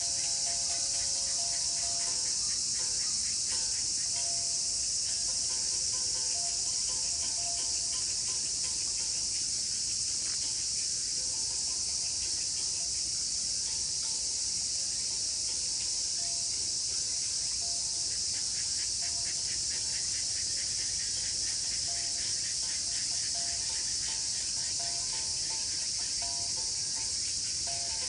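A dense chorus of insects, crickets or cicadas, chirping steadily and high-pitched throughout, with a fast pulsing beneath. Short, faint tonal notes come and go lower in pitch.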